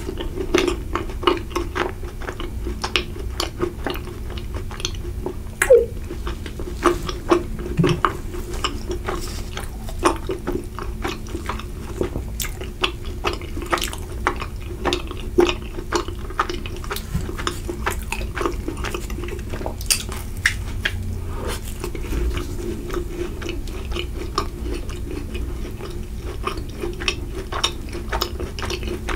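Close-miked chewing and mouth sounds from eating soft desserts, with many small clicks and smacks throughout, and a bite into a macaron.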